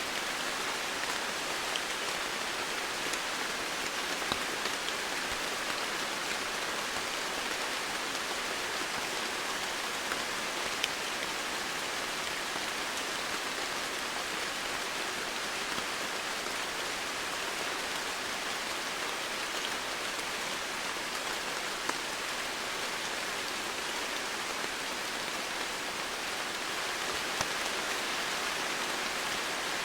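Steady rainfall, an even hiss of many drops with scattered louder individual drop ticks.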